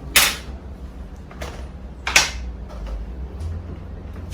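Two short, sharp noises about two seconds apart, with a fainter one between them, over a steady low hum.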